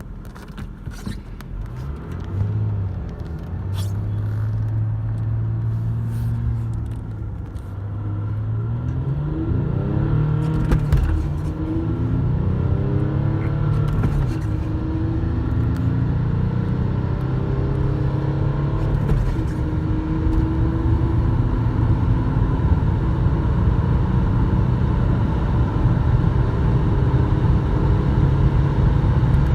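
VW Passat 2.5 TDI V6 diesel engine (AKN, catalytic converter and EGR removed) accelerating hard, its pitch climbing and then dropping back at each of several gear changes, getting louder over the first ten seconds.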